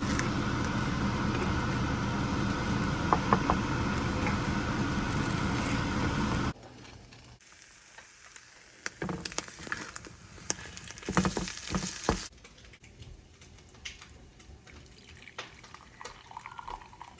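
Food sizzling in a frying pan, a dense steady hiss with a few sharp clicks, cutting off abruptly about six seconds in. Then quieter kitchen handling: scattered clicks and light clattering.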